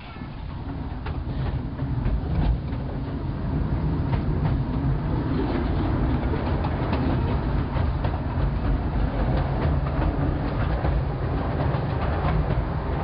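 Narrow-gauge 15-inch-gauge train running on the line, its wheels clattering over the rails with a low rumble. The sound builds up over the first few seconds, then holds steady.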